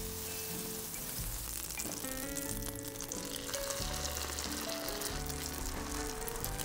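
Butter sizzling in a hot cast-iron skillet. About three and a half seconds in, a beaten-egg and shredded-vegetable mixture goes into the pan and the frying grows louder.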